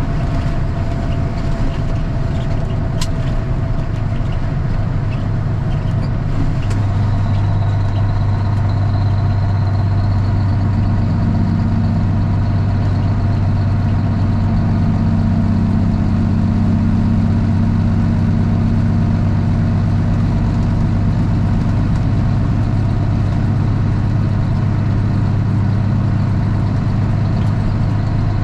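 Straight-piped Cummins ISX inline-six diesel of a Kenworth T800 running steadily, heard from inside the cab; its low exhaust note gets heavier about seven seconds in.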